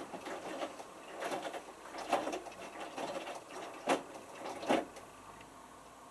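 Hotpoint Futura HF8B593 washing machine tumbling its drum during a whites wash cycle: the motor turns the drum with water sloshing and a few sharp knocks from the small load. It quiets near the end as the drum pauses.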